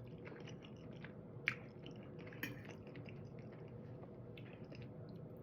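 A person chewing food, faint wet mouth clicks and smacks throughout, with a sharper click about a second and a half in.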